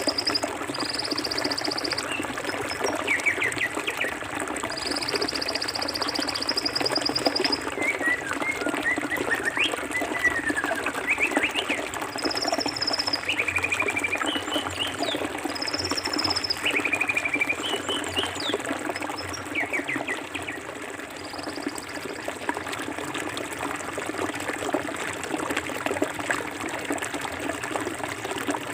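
Forest river flowing steadily, with birds calling over it: scattered short chirps and several high, fast trills, the longest lasting nearly three seconds about five seconds in.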